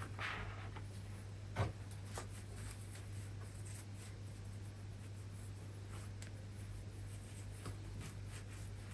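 Faint handling noises: light rubbing with a few small taps, one sharper click about a second and a half in, over a low steady hum.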